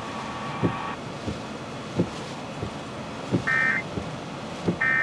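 A steady electronic tone cuts off about a second in. Under it runs a dull thump about every two-thirds of a second, and from about three and a half seconds in come short electronic beeps about every second and a half.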